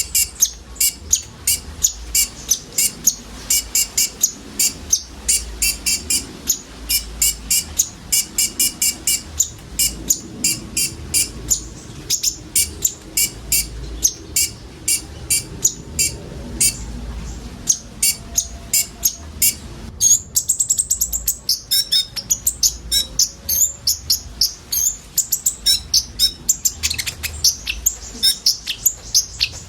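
A group of konin sunbirds singing: rapid, sharp, high chirps and twittering trills repeated without pause. About two-thirds of the way through, the song switches to a denser, higher twitter.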